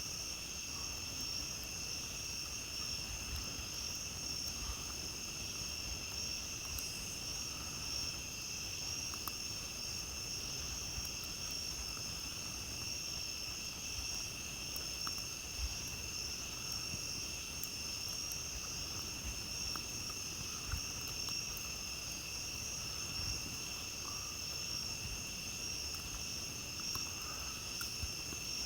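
A steady, unbroken chorus of night insects at a high pitch, with a few faint, scattered crackles from a campfire.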